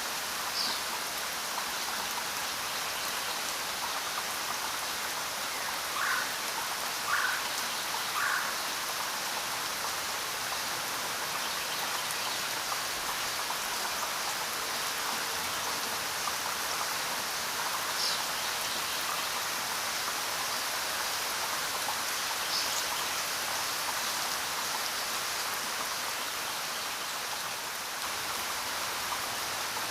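Steady rain falling in an even hiss, with a few louder single drops standing out, three close together about six to eight seconds in and a couple more later.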